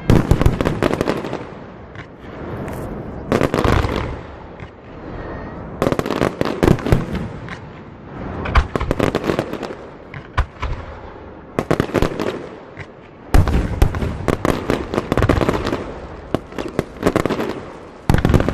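Aerial fireworks bursting: clusters of sharp bangs and crackling every few seconds, with rumbling echoes between them.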